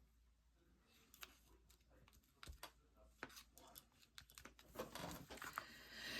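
Faint rustling of paper and small taps as craft pieces are handled, sparse at first and getting busier from about five seconds in.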